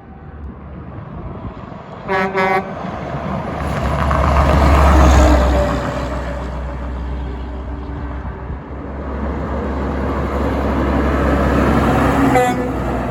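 Two short truck horn blasts, then the low engine rumble of a heavy truck driving past, swelling and fading, with another truck building up near the end.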